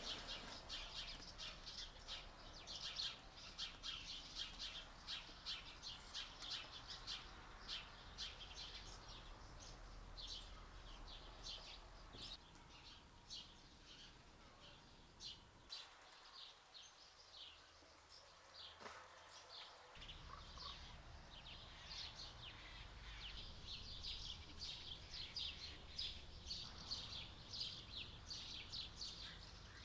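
Birds chirping outdoors: many short, rapid calls that run on continuously and fairly faintly.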